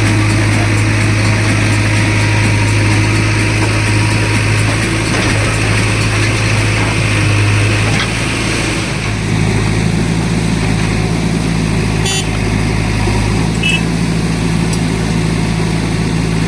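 Heavy diesel engine running steadily, its note shifting a little about halfway through, with a brief rattle of clicks later on.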